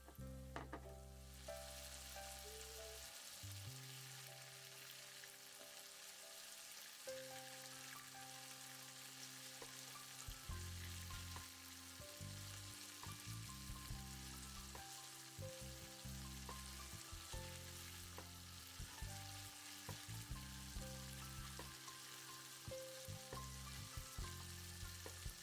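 Flour-coated chicken cubes frying in hot oil in a pan: a steady sizzle that starts about a second in, with light background music underneath.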